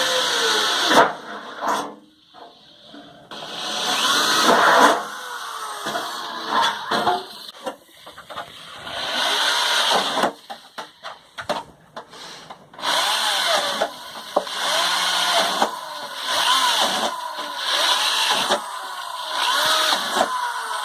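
Power drill boring holes through a metal baking pan, the motor revving up and winding down over and over. It stops briefly twice, then goes in quick short bursts of about one a second near the end.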